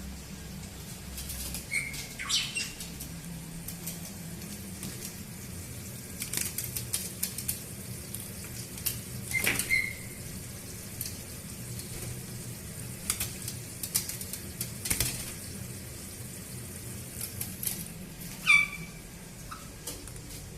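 Caique parrots bathing in water, fluttering their wet wings and splashing in repeated short flurries. Three short, shrill calls cut through, the last near the end and the loudest.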